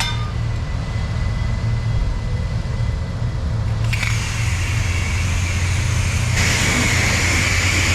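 Self-serve car wash pressure wand spraying, with a hiss of spray starting suddenly about four seconds in and getting louder near the end. A steady low hum runs under it.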